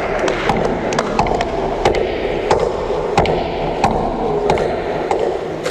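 Irregular sharp clicks, a few every second, over a steady background din.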